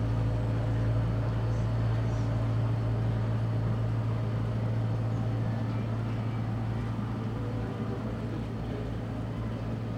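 Passenger boat's engine idling while moored, a steady low hum that does not change.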